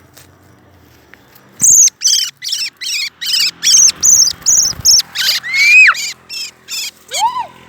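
A songbird calling loudly at close range. It starts about two seconds in with a fast run of short, high, arched calls, two to three a second, and a few longer rising-and-falling whistles come near the end.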